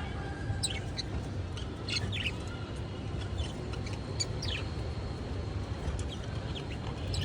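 Budgerigars chirping: short, sharp calls scattered through the first few seconds and thinning out later, over a steady low hum.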